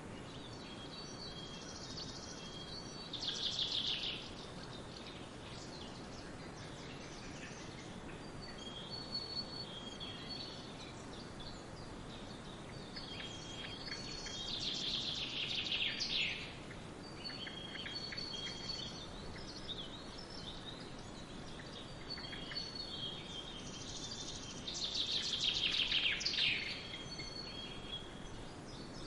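Songbirds chirping and singing over a steady background hiss, with short high calls throughout. A louder, rapid song that falls in pitch comes three times, roughly every ten seconds.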